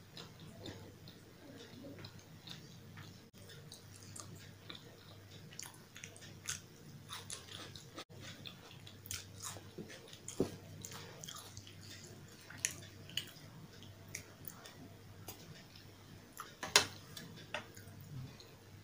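Close-miked chewing and wet mouth sounds of someone eating potato curry (aloo ki sabji) with puri: soft smacks and small clicks scattered through, and one sharp louder click near the end.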